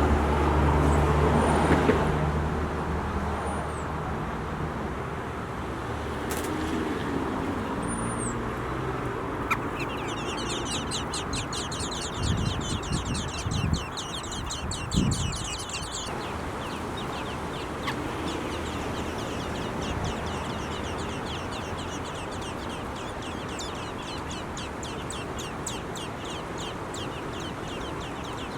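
Nestling birds begging for food: about ten seconds in, a dense run of rapid, high chirps starts, lasts several seconds, then goes on more faintly. Before that there are a few short high whistles, and a low rumble at the very start.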